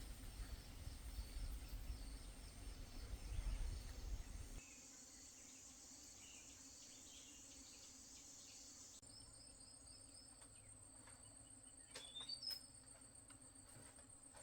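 Faint night chorus of crickets and other insects trilling steadily, with a low rumble for the first few seconds and a brief louder sound about twelve seconds in.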